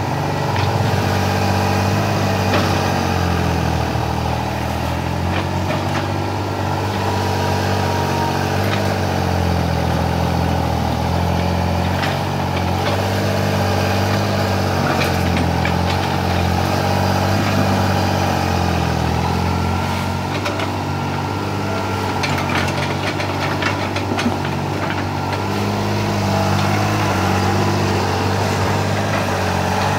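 Small excavator's diesel engine running steadily, its pitch dipping and rising a little under hydraulic load while it digs. Scattered sharp knocks and clanks sound over it, most often near the end.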